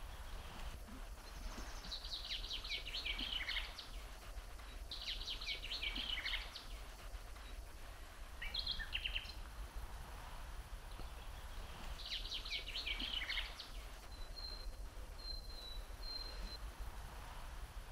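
A songbird singing the same short phrase of quick, descending high notes three times, with a brief call between the phrases and a few thin, high whistles near the end. A low, steady rumble runs underneath.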